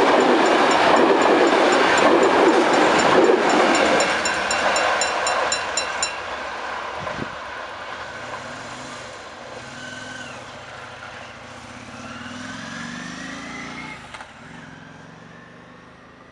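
A passenger train passing close by at speed, its rolling roar loudest for the first few seconds and then fading as it runs away down the line. A level-crossing bell ticks rapidly until about six seconds in, and later a motorcycle pulls away with its engine pitch rising.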